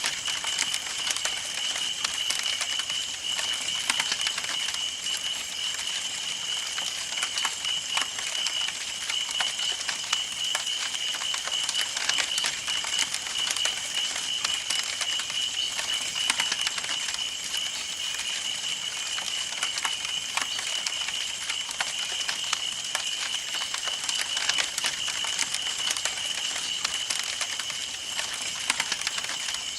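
Campfire burning: wood crackling and popping in dense, irregular clicks, over a steady high-pitched tone.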